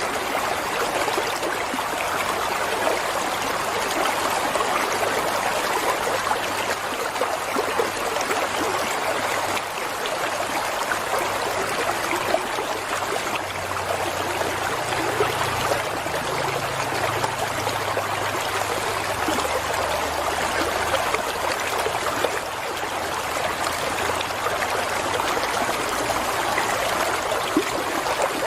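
Water flowing steadily, a continuous even rush of running water.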